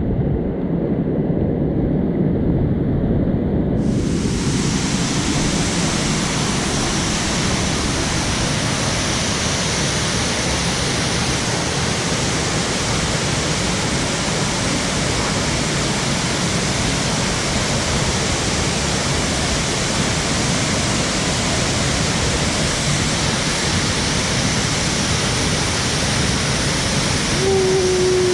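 Waterfall rushing steadily. The sound is dull and muffled for the first few seconds, then opens out into a full, bright rush. A brief steady tone sounds near the end.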